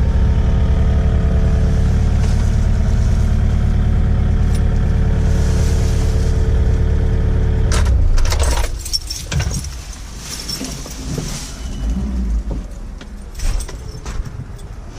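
Kubota KX057-5 excavator's diesel engine running steadily, then shut off about eight seconds in and winding down to a stop. Scattered clicks, rattles and knocks follow.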